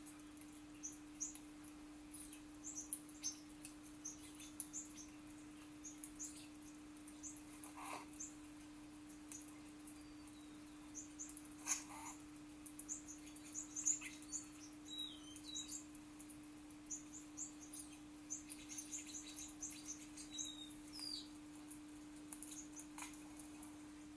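Small songbirds chirping in short, high peeps scattered throughout, played from a bird video through a laptop's speakers, over a steady low hum.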